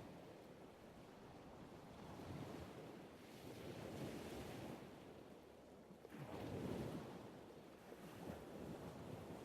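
Faint ocean surf washing in slow swells, one wave rising suddenly about six seconds in, with some wind.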